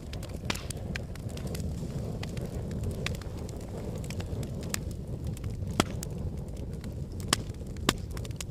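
Wood fire burning in a fireplace: a steady low rumble of flames with frequent sharp crackles and pops from the burning logs, the loudest pops about six, seven and eight seconds in.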